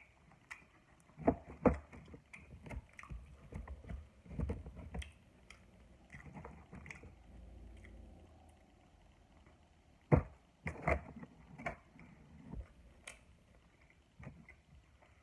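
Close-miked chewing and eating sounds, with irregular sharp clicks and knocks, the loudest about a second in and again about ten seconds in.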